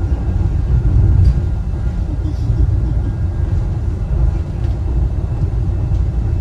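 Steady low rumble of a Wuppertal Schwebebahn suspension railway car running along its overhead track.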